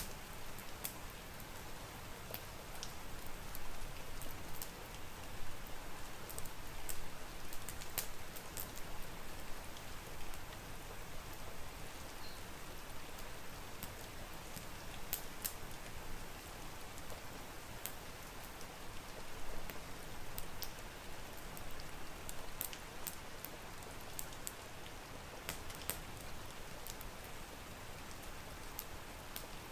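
Steady rain with a wood fire crackling: an even hiss of rain with scattered sharp pops and clicks over it, busiest in clusters around a third and again near the end.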